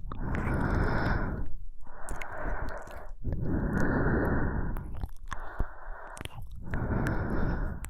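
Close-miked ASMR breathing: about five slow, long breaths, each a second or two of airy rush, with brief pauses between them and small wet mouth clicks.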